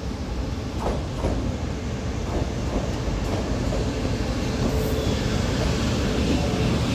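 Tze-Chiang express train hauled by an E1000-series electric locomotive, arriving at a station. Its rumble grows steadily louder, with a faint steady hum and wheels knocking over rail joints several times.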